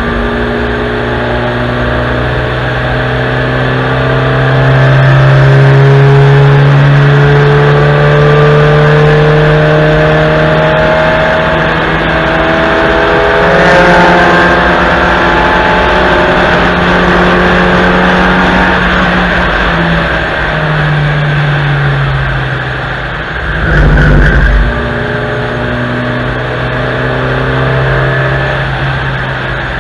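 Fourth-generation Honda Civic hatchback's 66 kW engine driven hard around a race track, its revs rising and falling with gear changes and corners, over tyre and wind noise. A brief low rumble comes about three-quarters of the way through.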